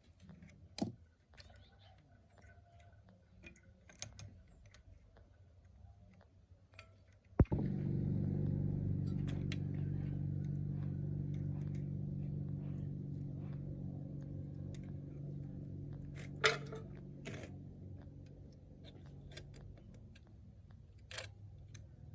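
Light clicks and clinks of metal tools and engine parts being handled. About seven seconds in, a sharp knock sets off a steady low hum that slowly fades away over about ten seconds, and a few more sharp metal clicks follow.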